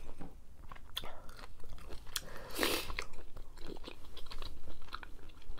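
Close-up chewing of cooked jumbo shrimp: wet mouth sounds and small smacks, with a louder short rush of noise about halfway through.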